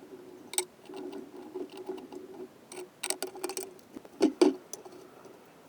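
Scattered light clicks and metallic taps of small engine parts and hand tools being handled, with two louder knocks a little past the middle.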